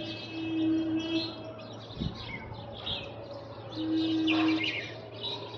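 Small birds chirping and tweeting in quick, scattered calls. A low steady tone sounds twice for about a second each, and a soft thump comes about two seconds in.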